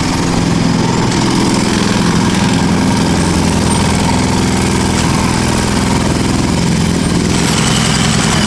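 An engine running steadily at idle, an even low drone with no change in speed.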